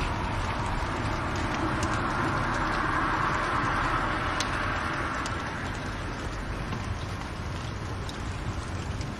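Fireplace fire burning: a steady rushing hiss with scattered sharp crackles and pops.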